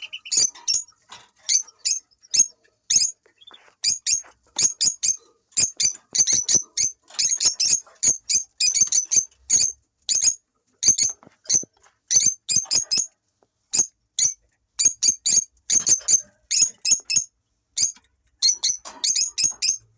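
A pair of rosy-faced lovebirds chirping: short, shrill, high-pitched calls in quick irregular clusters with brief pauses between them.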